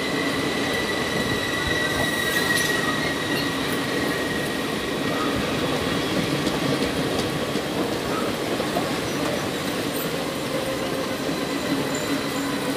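Indian Railways passenger coaches rolling slowly past with a steady rumble of wheels on rail and a thin, high, steady squeal from wheels and brakes as the train slows into the station.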